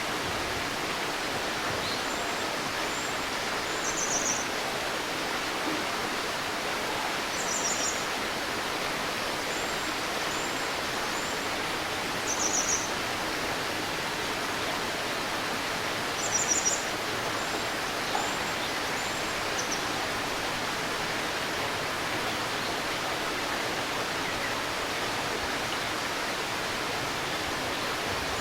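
A river babbling steadily, with small birds calling in short high chirps every few seconds over the water.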